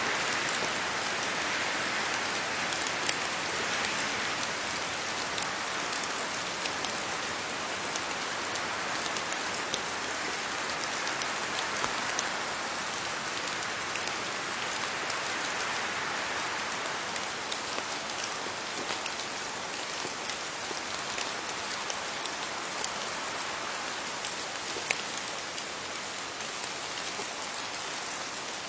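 Steady rain falling on leaves: an even hiss scattered with many small drop taps, with a gentle swell and fade in the first half.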